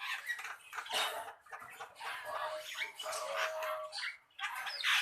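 Javan myna singing: a steady run of harsh, chattering calls and squawks with some short pitched notes, broken by brief pauses.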